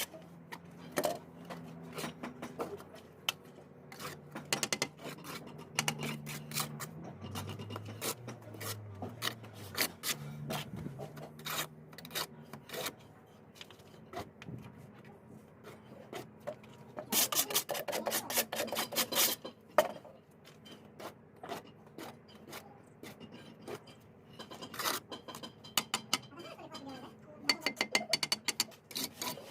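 Mason's steel trowel scraping and tapping on mortar and bricks: a run of short scrapes and clicks, coming in quick flurries about halfway through and again near the end.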